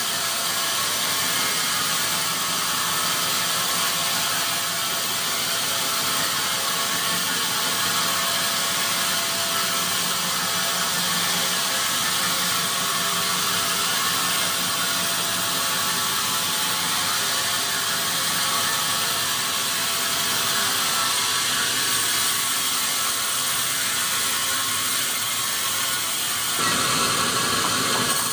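Sawmill machinery running steadily, a dense mechanical noise that thickens about two seconds before the end.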